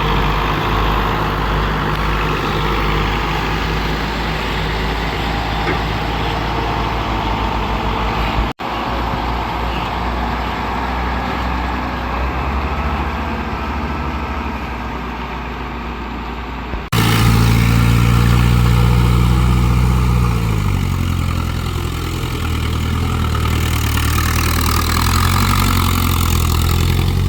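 Antique tractor engines running, in pieces of footage joined by abrupt cuts about a third and two-thirds of the way in. In the last piece a loud, steady engine note drops in pitch partway through.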